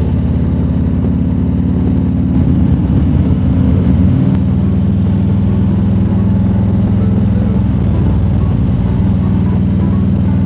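Harley-Davidson Road King Special's V-twin engine running steadily at cruising speed on the road, its note shifting about four seconds in.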